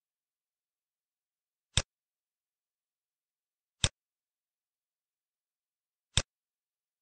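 Three single computer mouse clicks, about two seconds apart.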